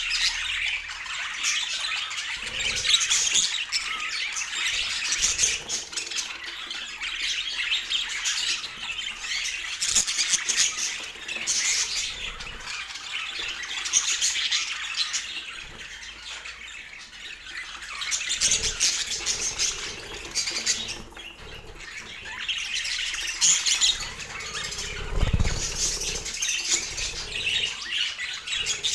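Budgies chattering continuously with squawks and chirps, with a brief low thump or flutter about 25 seconds in.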